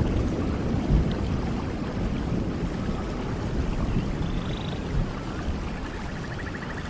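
Rainforest thunderstorm: steady rain with a low rumble of thunder that slowly fades. A faint rapid trill comes in near the end.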